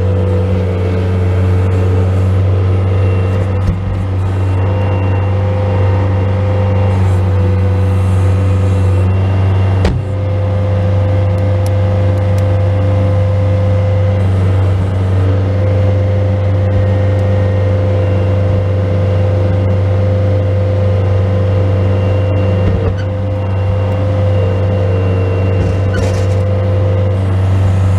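Bobcat S185 skid steer loader's four-cylinder diesel engine running steadily under load while plowing snow, with a steady whine over the engine note and a few brief knocks.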